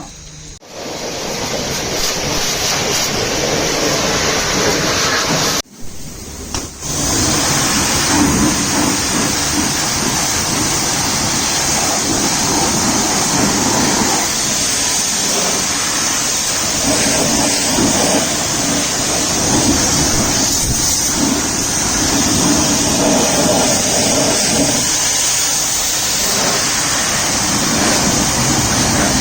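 High-pressure water jet spraying, a steady loud hiss that stops briefly about six seconds in, then carries on.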